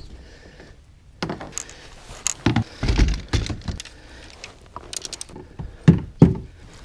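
Knocks, scrapes and rattling of gear as a Lifetime Tamarack Angler 100 plastic fishing kayak is handled at the water's edge during launch, with two heavy thumps near the end.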